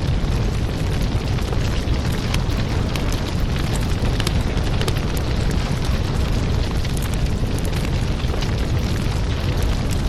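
Fireplace crackling: a steady low rumble of burning wood, with frequent sharp pops and crackles.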